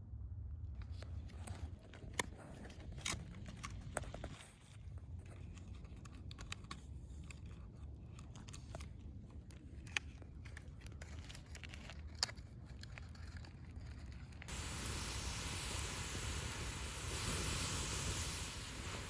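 A Swedish torch log fire burning, the wood crackling with a few sharp pops. About two-thirds of the way through, a loud steady rushing hiss comes in over it.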